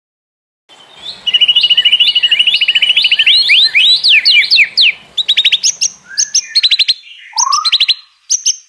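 A songbird singing, starting about a second in: a rapid high trill, then a run of quick swooping whistles, then fast chattering notes with a couple of lower slurred calls near the end.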